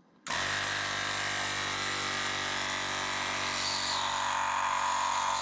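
Electric air compressor switching on abruptly and running steadily, a motor hum under a dense hiss.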